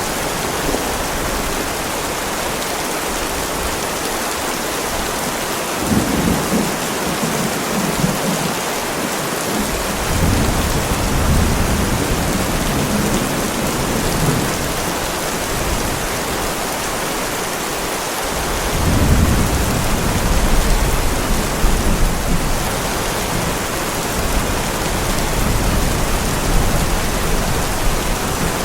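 Heavy rain falling steadily, with rolling thunder rumbling low in several long peals: a short one about six seconds in, a longer one from about ten seconds in, and another from about two-thirds of the way through.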